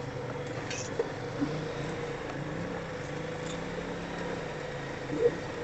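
Four-wheeler (ATV) engine running at a steady speed, with a few short knocks, the loudest near the end.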